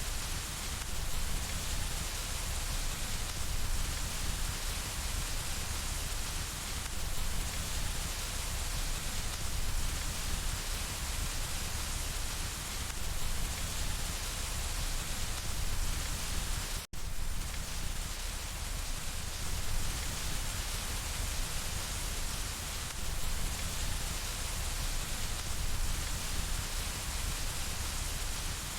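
Steady rain falling on window glass, an even continuous hiss of drops. About two-thirds of the way through, the sound cuts out for a split second.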